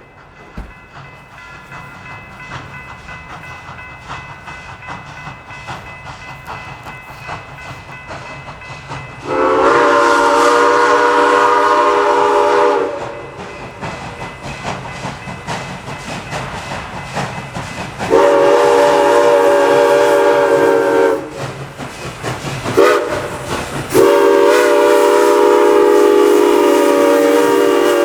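Steam whistle on CNJ 113, an 0-6-0 steam switcher, blowing long, long, short, long, the grade-crossing signal, over the steady running sound of the locomotive and its train. Each long blast lasts about three seconds and sounds several notes at once.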